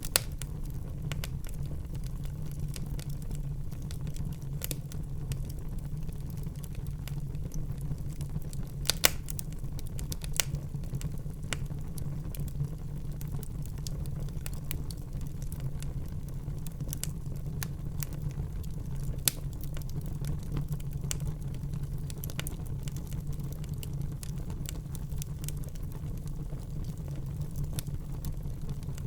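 Wood fire burning in a fireplace: a steady low rumble with scattered sharp crackles and pops, a few of them louder, about 9 and 19 seconds in.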